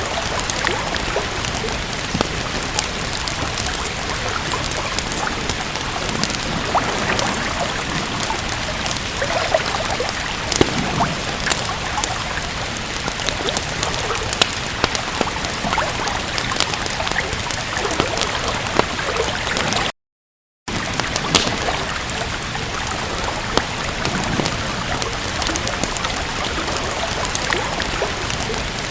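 Steady rain with frequent small sharp crackles and pops from a wood fire. The sound cuts out completely for under a second about two-thirds of the way through, then resumes.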